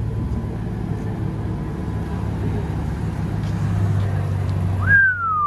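Car engine running with a steady low rumble. Near the end the rumble cuts off abruptly and a short high squeal falls in pitch.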